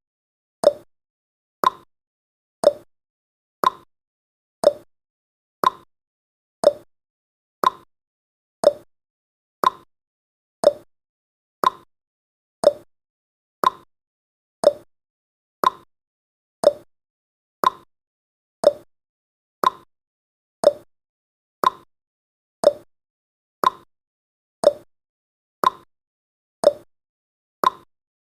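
Countdown timer's clock-tick sound effect: one short, sharp tick every second, evenly paced, with silence between ticks.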